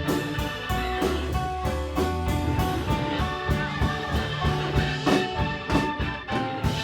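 Live band playing an instrumental passage, with guitar, a deep bass line and drum hits.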